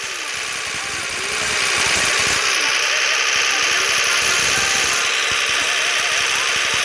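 Tractor engines running, a loud steady din that swells a little about a second and a half in.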